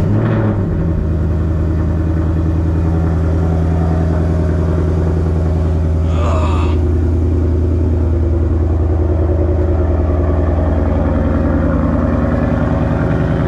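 Ford Mustang Bullitt's 5.0-litre V8 starting on a cold start and settling into a steady idle. A brief higher-pitched sound comes about six seconds in.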